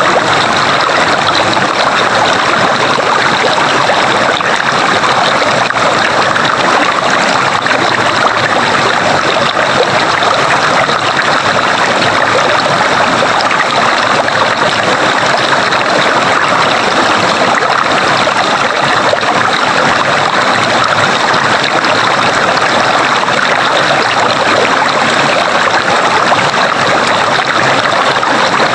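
Water of a stream flowing steadily, an even, unbroken rush.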